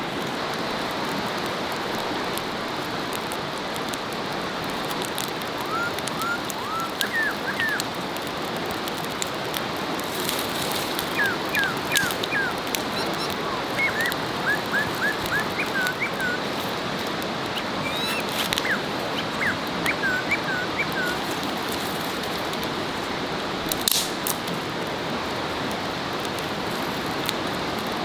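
Steady outdoor hiss, with runs of short, high, hooked animal calls, several a second, from about six seconds in to about two-thirds of the way through. A single sharp click comes near the end.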